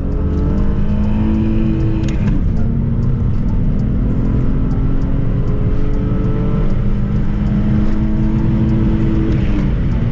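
BMW E46's M54 3-litre straight-six pulling through the gears. The pitch climbs, drops at a gear change about two seconds in, then climbs slowly again for about seven seconds before another change near the end.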